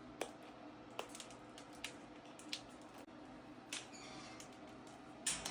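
Macaw's beak working on a treat: a few sharp, faint clicks and cracks at irregular intervals, about one a second.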